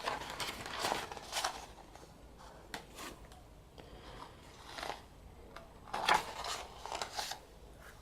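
Paper and plastic rustling and crinkling in three short spells, with a few sharp clicks around the middle: an album's photo books and packaging being handled and opened.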